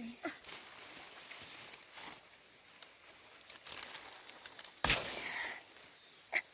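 Rustling and handling noises with a loud sharp knock about five seconds in and a shorter click near the end, over a thin steady high-pitched drone.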